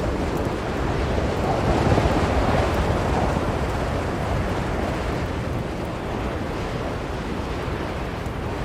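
Blizzard wind blowing as a steady rush, swelling in a gust about two seconds in and then easing back.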